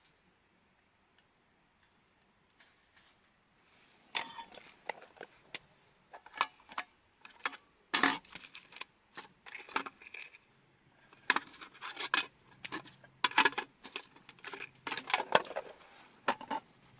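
Camping gear being handled: irregular metallic clinks and rattles, starting about four seconds in.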